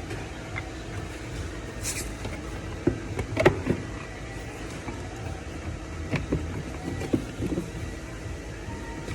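Scattered clicks and knocks of parts and tools being handled on an engine, the loudest cluster about three seconds in, over a steady low hum.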